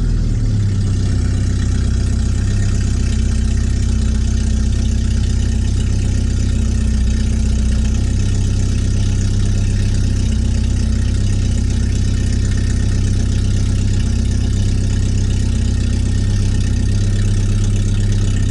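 The 2.7-litre four-cylinder engine of a 1989 Porsche 944 runs steadily through a straight-piped exhaust with no muffler. The note is loud and even, without revving.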